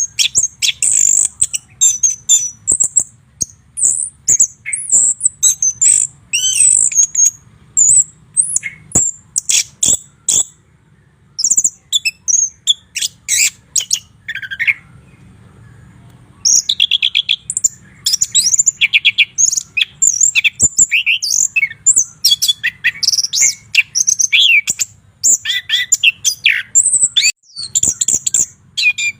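White-rumped shama singing a rapid, varied song of clear high whistles and chattering notes, with a pause of about two seconds midway.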